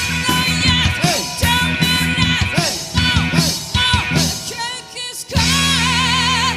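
Rock band playing a rock-and-roll number, with rhythmic electric guitar chords and wavering held notes. The playing thins out briefly just before the five-second mark, then a full held chord rings out.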